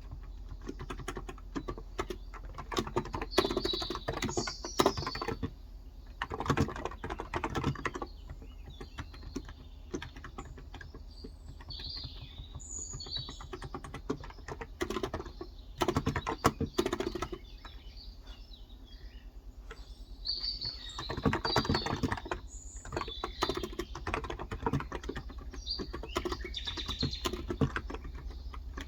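Typing on a Cox Endeavor tenkeyless keyboard with 35 g electro-capacitive switches, in runs of rapid keystrokes broken by short pauses. Birds chirp briefly now and then in the background.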